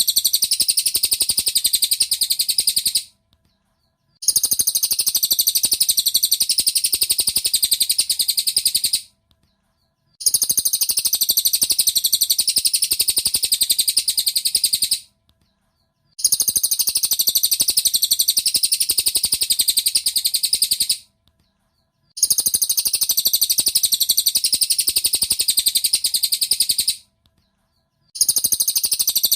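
Cililin bird song used as a masteran (training recording): a high, very fast rattling trill of rapid chirps. It comes in stretches of about five seconds with short silent gaps of about a second between them, the same phrase repeating over and over.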